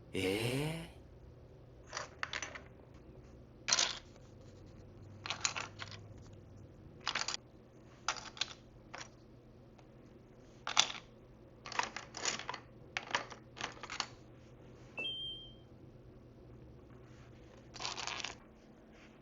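Small plastic miniature food pieces and tiny dishes clicking and clattering as they are picked up and set down, in about a dozen separate light taps. It opens with a brief squeaky scrape.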